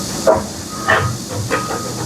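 Heavy work vehicle running with its reversing alarm beeping, and three short harsh sounds from the machine about half a second apart.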